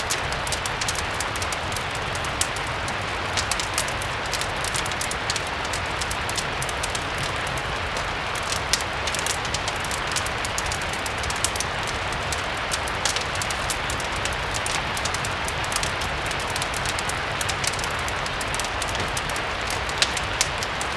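Steady rain mixed with a crackling fire: an even rain hiss over a low rumble, dotted with frequent small sharp pops and ticks.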